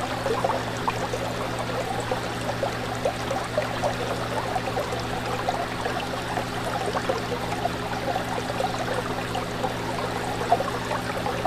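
Fish tank running: water from the filter or air pump splashing and bubbling steadily over a low electric hum.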